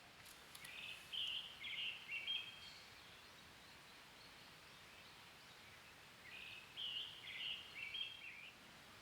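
A songbird singing two short songs of several quick chirps each, the first about a second in and the second about six seconds in, over a faint steady background.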